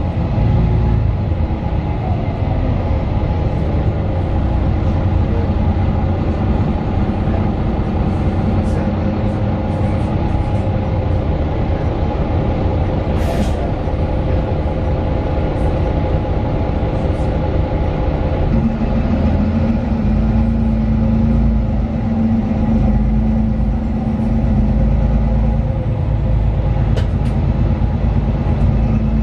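Cabin sound of a 2018 Mercedes-Benz Citaro 2 city bus, with its OM 936 six-cylinder diesel and ZF Ecolife automatic gearbox, under way: steady engine and road noise. There is a short hiss about halfway through, and about two-thirds through the engine note settles into a steadier hum.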